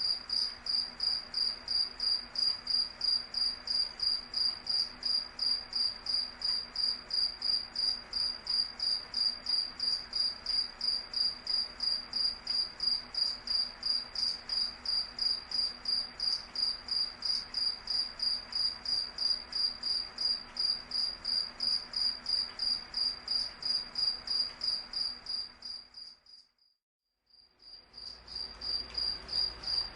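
Cricket chirping in a steady, even rhythm of high-pitched pulses, about three a second. The chirping breaks off for about a second and a half near the end, then resumes.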